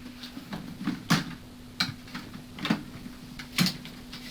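Irregular light clicks and taps of hand work on a plastic motorcycle fairing panel and its staple repair, about five in all, over a steady low hum.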